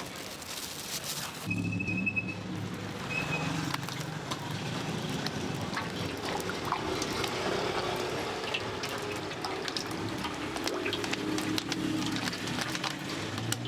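Kitchen work sounds: many small clicks and clatters mixed with liquid sounds, over a low steady hum that comes in about a second and a half in.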